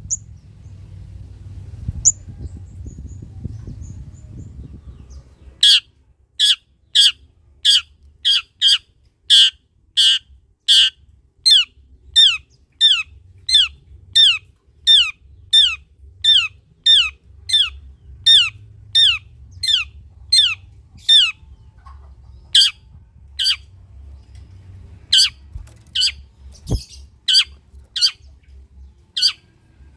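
Long-tailed shrike (cendet) calling in a long run of harsh, sharp notes that each sweep downward, about two a second, starting after a few seconds of low rumbling hum; after a short pause the calls go on more spaced out.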